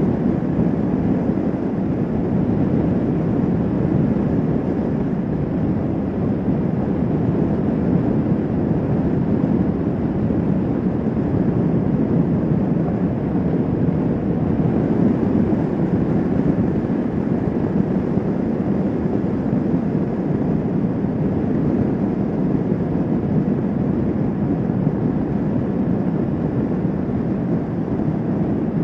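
Kawasaki Vulcan S 650 motorcycle cruising at a steady speed: a constant rush of engine, road and wind noise that holds even throughout, with no revving or gear changes.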